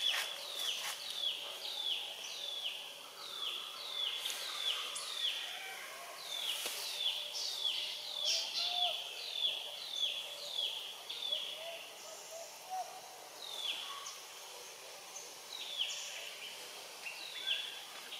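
A bird calling a long run of short, high, falling chirps, about two a second, that thins out to occasional single chirps over the last several seconds.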